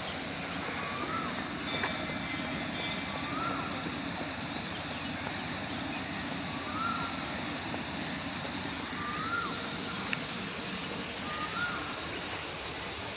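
Steady rush of running water, with a short upward-sliding call repeating five times, every two to three seconds.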